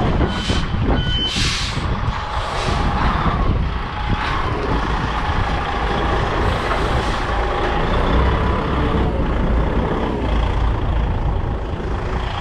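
Container truck's diesel engine running steadily, with short sharp hisses of air from its brakes three times in the first few seconds.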